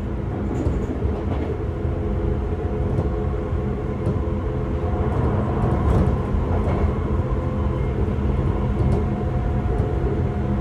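Sotetsu 8000 series electric train running on the line, heard from inside the motor car. The motors and gears hum as a set of steady tones over a continuous rumble of wheels on the rails.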